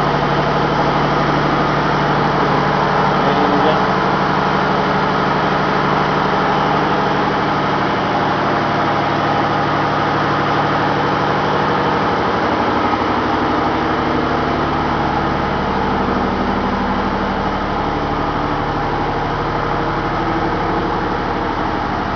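Ship's engine-room machinery running: a loud, steady engine hum with constant tones and no change in speed.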